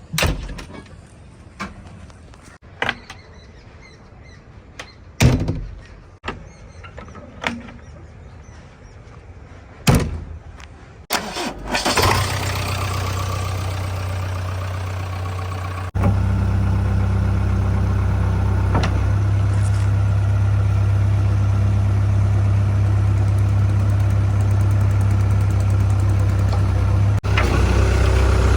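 A series of separate knocks and clicks, then about eleven seconds in a diesel engine starts and settles into a steady run, getting louder about sixteen seconds in.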